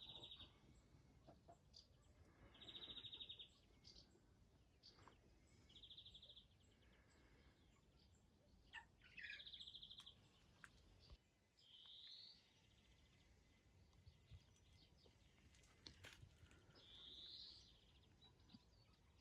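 Faint songbird calls over near silence: a short, high, buzzy trill repeated every few seconds, some rising at the end, with a few other brief chirps between.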